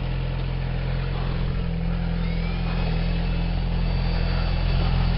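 Yamaha R6 sport bike's inline-four engine idling steadily.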